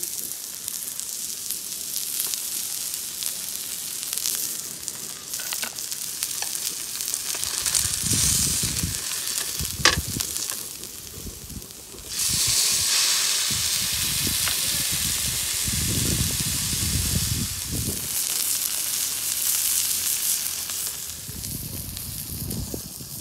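Food sizzling on a hot griddle. There is one sharp click about ten seconds in, and the sizzle suddenly turns louder shortly after and stays loud.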